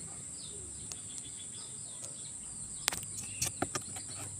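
Small birds chirping against a steady high-pitched insect drone, with a few sharp clicks about three seconds in.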